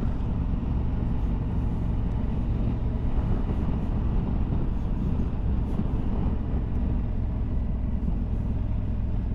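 Motorcycle on the move at a steady speed: the engine runs evenly under a constant rush of wind across the helmet microphone.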